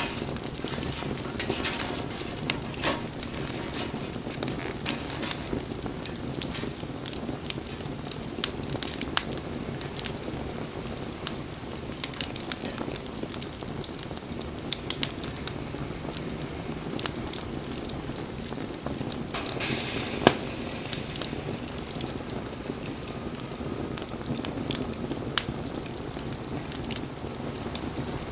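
Wood campfire burning, crackling with irregular sharp pops and snaps over a steady hiss of flame; one louder pop comes about twenty seconds in.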